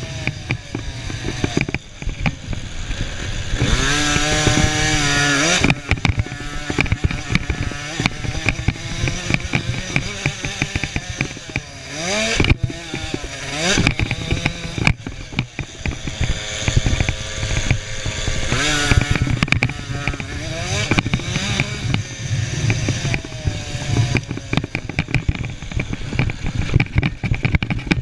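Small 50 cc two-stroke motocross bike engines racing, revving up and down over and over. There are sharp rising revs about four, twelve and nineteen seconds in.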